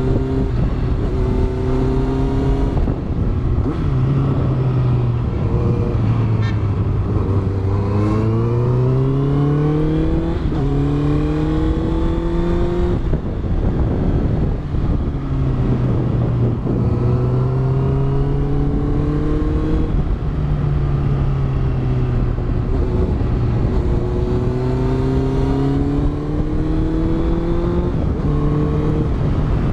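Honda CBR650F's inline-four engine through a Yoshimura exhaust, heard onboard while riding. Several times the engine note climbs steadily with the revs, then drops back sharply at a shift or roll-off.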